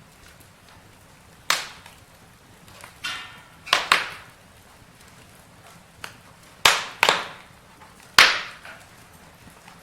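Campfire wood crackling: about six sharp pops at irregular intervals, each dying away quickly, over a faint steady hiss.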